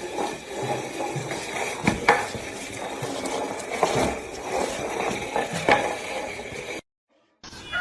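Light clattering: a handful of sharp clicks and knocks at irregular intervals over a steady background hiss, like household objects being handled.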